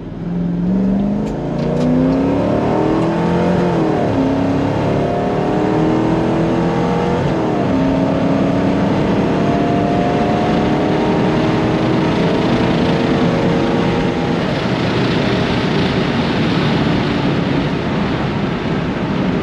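Turbocharged Mercedes M113 5.0 V8 in an S124 wagon at full throttle, heard from inside the cabin, running about 0.7 bar of boost. The engine pitch climbs, drops at an upshift about four seconds in, climbs again, drops at a second upshift about seven seconds in, then climbs more slowly through the next gear before the engine note fades into a steady rushing noise near the end.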